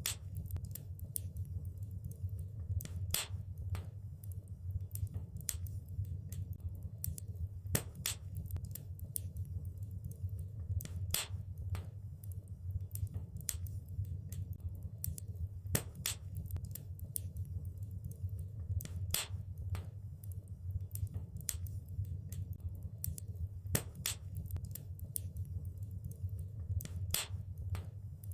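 Wood fire burning in a fireplace, crackling with irregular sharp pops and snaps over a steady low rumble; a few pops stand out louder.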